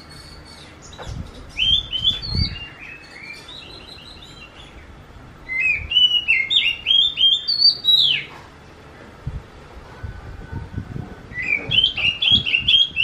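Oriental magpie-robin (kacer) calling in three bursts of quick, repeated upslurred notes, a voice likened to a kitten's mew.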